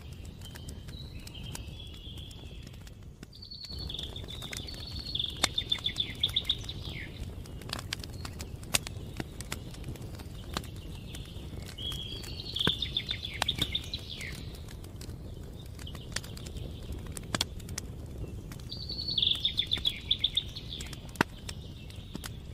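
A songbird sings the same fast trilled phrase three times, about seven seconds apart. Under it, a campfire gives scattered sharp crackles and pops over a steady low background.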